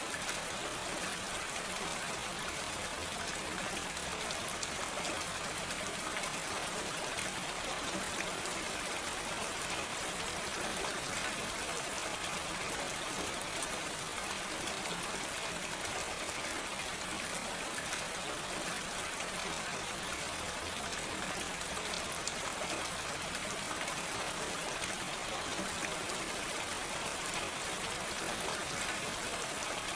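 Steady gentle rain falling, an even hiss of many small drops with no thunder.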